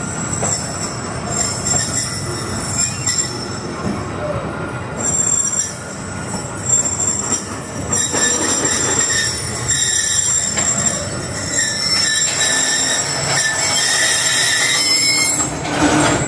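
Pakistan Express passenger train rolling slowly into a station with a steady running rumble and a high wheel squeal, the squeal strongest near the end as it slows.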